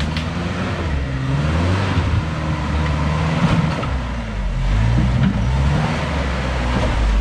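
An off-road 4x4's engine revving up and falling back several times as it drives a rough trail, over a steady noisy rumble.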